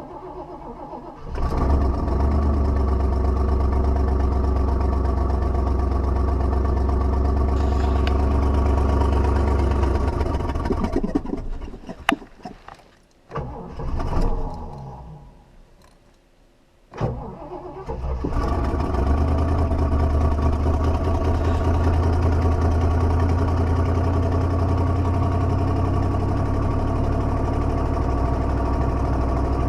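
Cadillac Eldorado V8 being started cold after sitting a month, its carburetor likely drained: it catches and runs, dies away about eleven seconds in with a click and a brief surge, then starts again and settles into a steady run.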